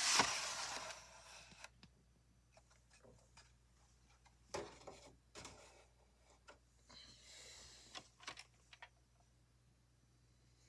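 Plastic VHS cassette and case being handled: a rustling scrape at the start, then scattered faint clicks and a brief rub.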